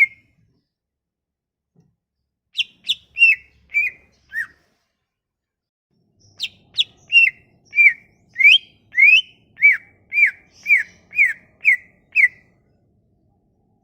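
A cucak ijo (leafbird) singing a lure song of clear, slurred whistled notes, mostly falling in pitch. A short phrase of about five notes comes early on, then after a pause a longer run of about a dozen notes at roughly two a second.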